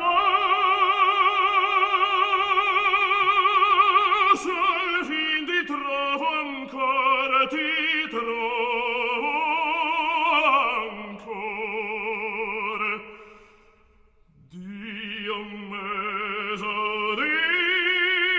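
Operatic singing: a single voice holding long notes with wide vibrato, stepping down in pitch, with a brief pause for breath about 14 seconds in before it sings on.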